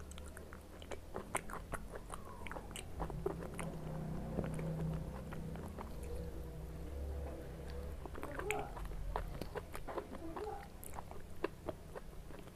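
A person chewing food close to the microphone, with frequent short mouth clicks and smacks.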